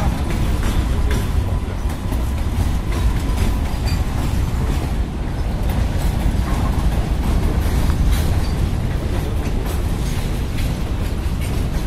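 Railway passenger coach running along the track, heard from the coach itself: a steady, loud rumble of the wheels with irregular clicks and clacks over the rail joints.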